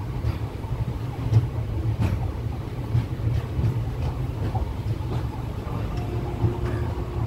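Passenger train running along the track: a steady low rumble with scattered clicks and knocks from the wheels and coach.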